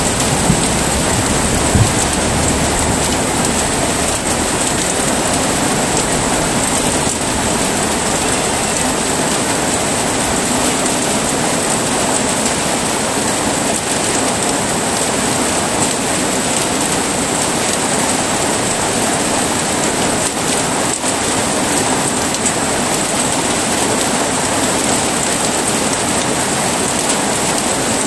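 Heavy rain falling steadily, a dense even hiss of drops on surfaces, with the tail of a low thunder rumble fading out in the first couple of seconds.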